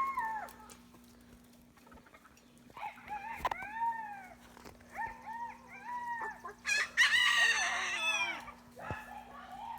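Rooster crowing: several drawn-out calls that rise and fall in pitch, with the loudest and harshest about seven seconds in.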